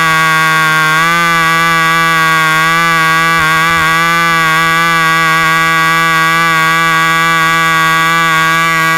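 Cox .049 glow engine fitted with a muffler, running steadily at speed on one even note, its pitch wavering briefly about a second in and again about three and a half seconds in.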